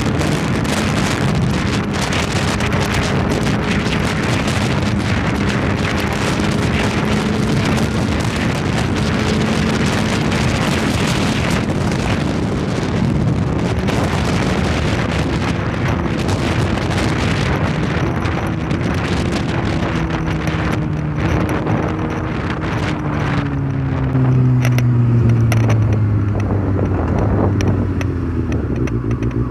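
Kawasaki ZX-6R's tuned inline-four engine running at speed, largely buried under heavy wind rush on the microphone. In the last third the engine note falls steadily as the bike slows.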